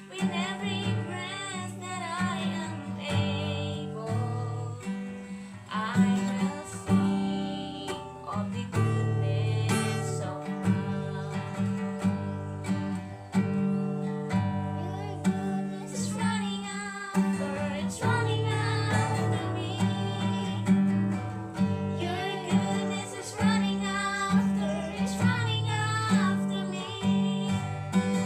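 Female voice singing a slow song over strummed acoustic guitar.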